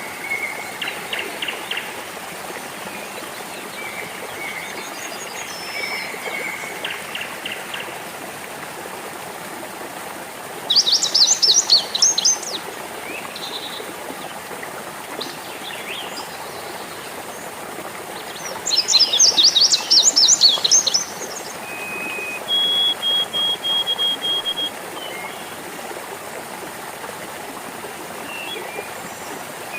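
Water trickling and babbling steadily, with several birds singing over it: short whistled notes, two loud bursts of rapid high trilling, and later a run of evenly repeated high notes.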